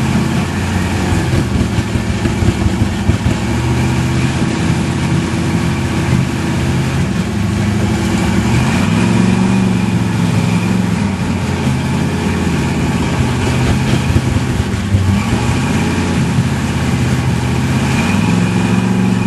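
Toyota 4Runner's engine working under load as the truck crawls over rock, its pitch rising and falling several times as the throttle is fed in and eased off.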